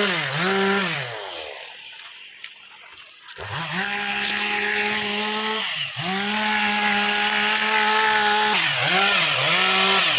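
Two-stroke chainsaw revved in quick throttle blips, falling quiet for about two seconds, then held at a steady high rev with a brief dip midway, and blipped again several times near the end.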